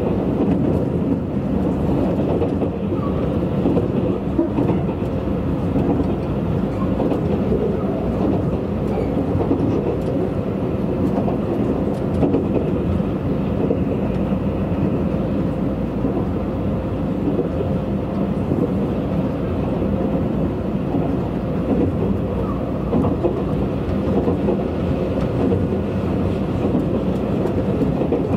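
Steady running noise of a Tobu Spacia limited-express electric train at speed, heard from inside the passenger cabin: a continuous low rumble of wheels on rails.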